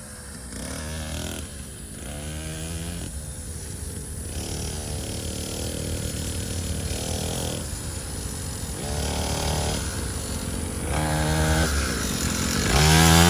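SYX Moto 50cc kids' dirt bike engine running, revving up and easing off again and again as the throttle is opened and let go, with the loudest rev near the end.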